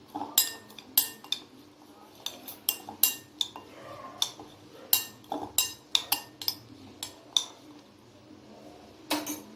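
A spoon mixing a chopped onion, tomato and coriander masala in a bowl, clinking irregularly against the bowl's sides; the clinks thin out about three-quarters of the way through and come back briefly near the end.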